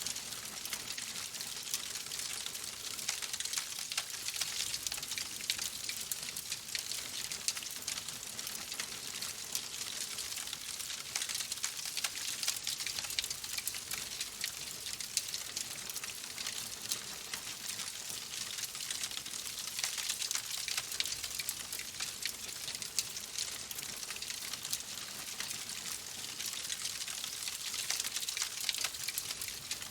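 Wood fire crackling in a fireplace: a steady hiss with a dense, continuous stream of small pops and snaps.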